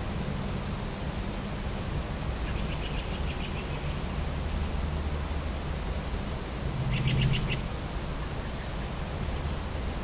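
Small birds calling: a quick chattering run of repeated notes about two and a half seconds in and a louder one around seven seconds, with thin high chips between. Under them is the steady low rumble and hiss of distant traffic.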